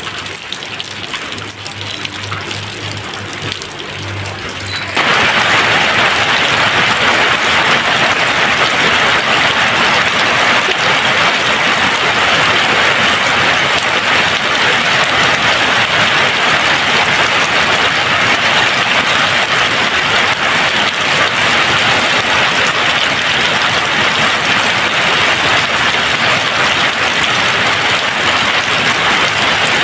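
Steady rain, an even hiss of falling water. About five seconds in it abruptly becomes louder and fuller and stays that way.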